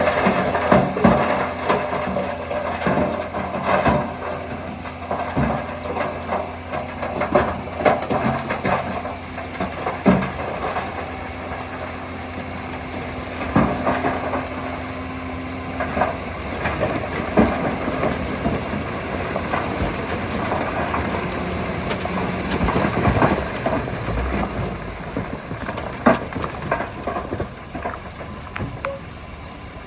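Diesel engine of heavy earthmoving machinery running steadily, its pitch shifting a little over the stretch, with repeated clanks and knocks throughout.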